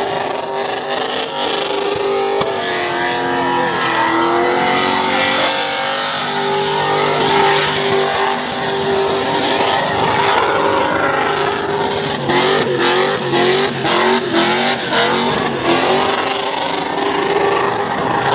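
A car's engine held at high revs during a burnout, with the noisy hiss of spinning tyres. Through the second half the revs rise and fall over and over in quick swings.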